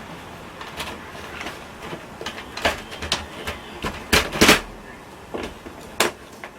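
Irregular knocks, clicks and clatter of hard parts being handled and fitted while a window air conditioner and its window-frame bracket are installed. The loudest knocks come in a quick cluster a little after four seconds in, with another sharp knock near six seconds.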